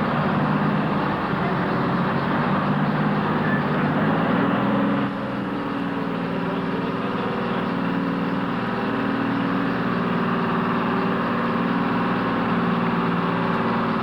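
A heavy truck engine running steadily, its note wavering a little. About five seconds in, the sound drops slightly and the engine note shifts.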